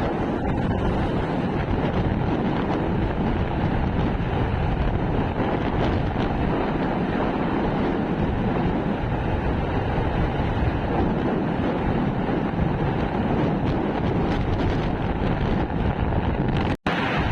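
Wind rushing over the microphone of a motorcycle riding at speed, mixed with steady road and engine noise. The sound cuts out for a split second near the end.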